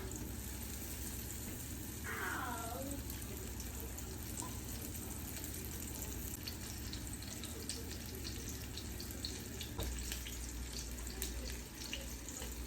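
Breaded chicken pieces frying in hot oil in a pan: a steady sizzle with scattered crackles and pops, and a light knock about ten seconds in.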